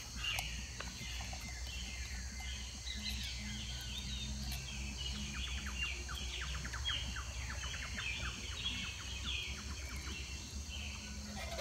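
Small birds chirping and singing throughout, many quick high chirps and short falling calls, over a steady low background rumble.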